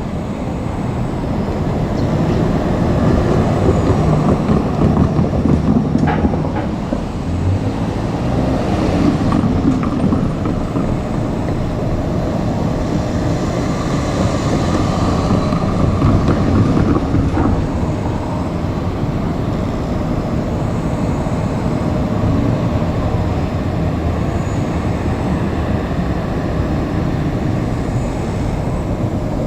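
JR Kyushu 817 series electric train running on the rails: a steady rumble of wheels and running gear, with a few sharp clicks at the start and about six seconds in.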